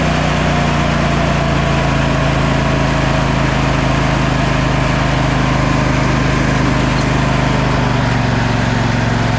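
Sabre by John Deere lawn tractor's twin-cylinder engine running steadily, now firing on both cylinders. It seems to be over-revving a little or not idling down enough.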